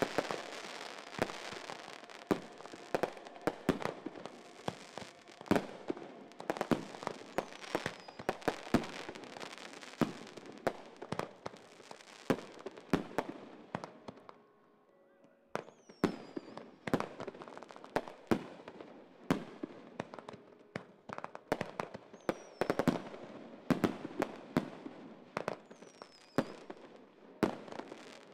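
Aerial fireworks display: rapid bangs of shells bursting, with crackling between them. There is a short lull about halfway through, then more bursts with a few high, falling whistles.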